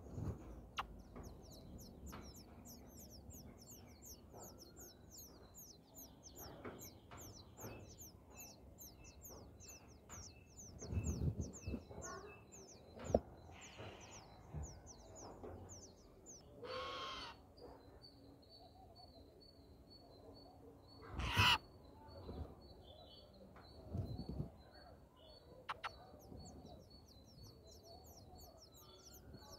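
Birds calling: a fast run of high, thin notes through the first dozen seconds and again near the end, with a few louder, harsh calls in between.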